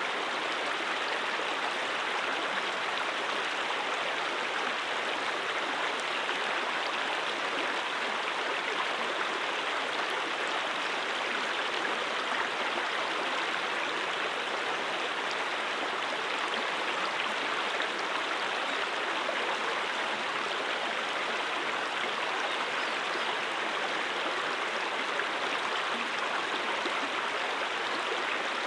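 A mountain stream flowing over rocks: a steady, even rush of running water.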